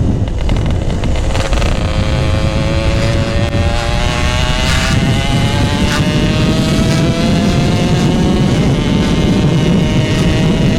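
Two-stroke single-cylinder engine of a Yamaha RX-King on the move, running through a GRT18 K26 aftermarket exhaust. Its pitch climbs slowly and steadily as the bike pulls under throttle.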